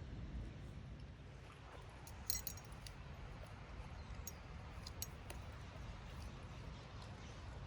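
Outdoor ambience with a steady low rumble of wind on the microphone and a few light, sharp clicks or clinks, the loudest about two seconds in.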